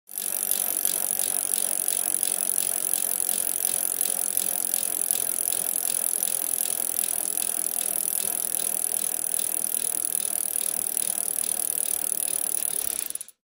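Steady, fast mechanical rattling made of rapid, even ticks, starting and cutting off abruptly: a stock sound effect.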